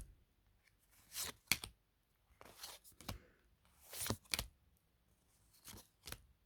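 Tarot cards being handled and flipped through one at a time: a series of short, irregularly spaced paper rustles and flicks.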